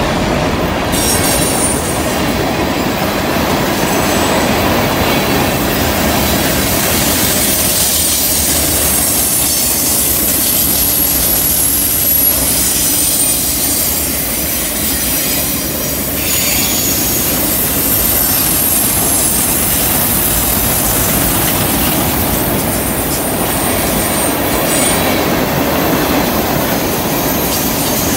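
Freight cars rolling past on curved track: a steady rumble and clatter of steel wheels on rail, with high wheel squeal from the curve coming and going.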